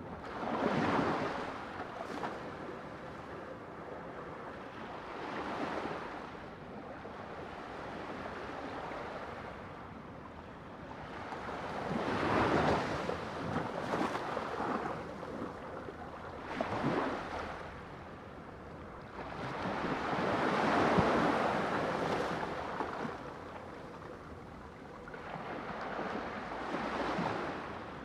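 Sea waves breaking and washing up the shore, the surf swelling and falling away about six times. The loudest surges come near the start, about halfway through and about three-quarters through.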